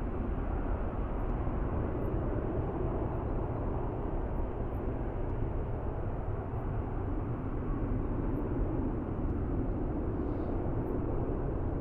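Departing Airbus A330-243's Rolls-Royce Trent engines: a steady jet noise, heaviest in the low end, with wind buffeting the microphone.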